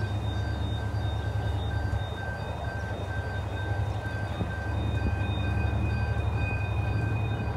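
Coal train's hopper wagons rolling slowly past, a steady, heavy low rumble of wheels on rail.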